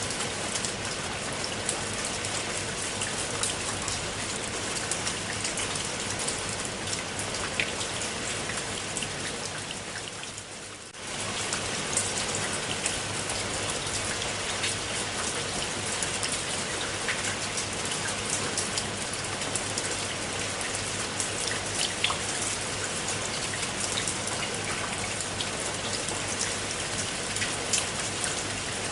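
Rain falling on a pool of water: a dense, steady patter of drops with scattered sharper drop hits. The sound fades down briefly about ten seconds in and comes back suddenly.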